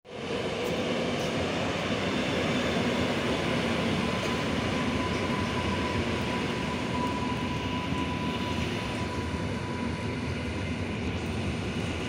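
Koleje Mazowieckie electric multiple unit passing through the station: a steady rumble of wheels on rails. A thin, steady whine joins in a few seconds in and fades out again before the end.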